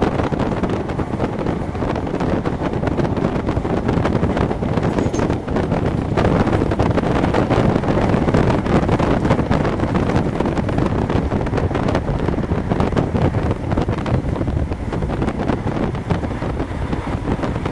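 Train running at speed on the main line: a steady rumble of wheels on rail with wind buffeting the microphone.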